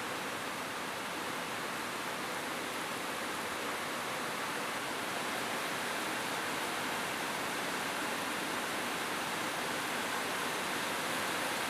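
Steady rain falling on a roof: an even hiss with no single drops or thunder standing out.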